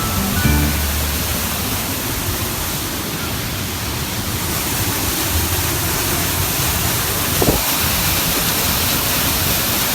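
Hogenakkal Falls on the Kaveri River: a loud, steady rush of falling water, an even hiss with a deeper rumble beneath it.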